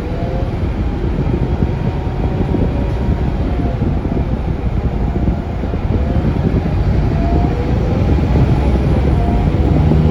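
Interior sound of a Scania K360UA articulated city bus under way: a loud, steady rumble of the Scania DC9 engine, drivetrain and road, with short, faint squeaks over it, growing slightly louder through the stretch.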